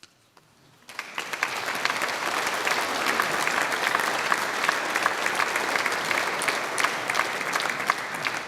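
Audience applauding in a church after a choir piece ends, starting about a second in after a near-silent pause and holding steady.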